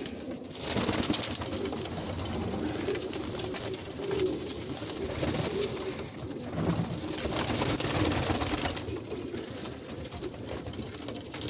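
Many domestic pigeons in a loft cooing, their low calls overlapping without pause.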